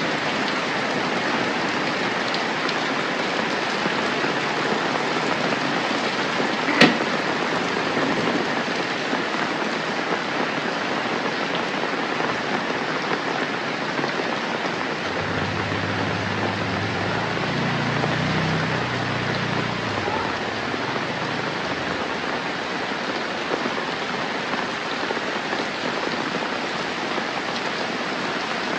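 Steady rain falling, an even hiss throughout. A single sharp click about seven seconds in, and a low rumble rises and fades about halfway through.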